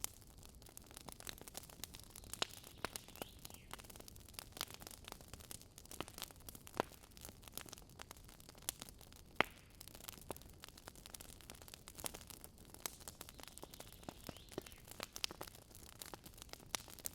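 Wood campfire crackling, with irregular sharp pops and snaps of burning wood over a faint steady hiss of the flames; one pop about two-thirds of the way through stands out as the loudest.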